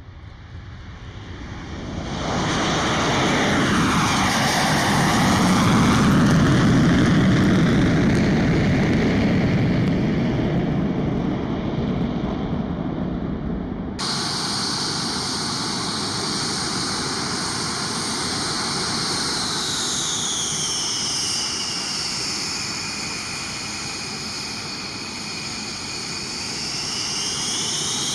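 Jet engines of a B-1 bomber passing: the noise swells in over the first two seconds, peaks with a whoosh that sweeps down and back up in pitch, then eases off. About halfway through, a cut switches to a steadier run of jet noise with another slow sweep down and up.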